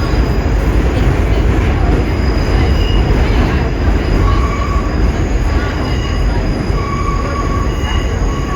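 R46 subway train running through a tunnel with a steady loud rumble. Its wheels squeal in short, thin high tones that come and go from about halfway through.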